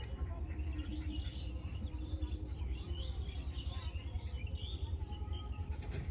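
Many birds chirping and calling, over a steady low rumble.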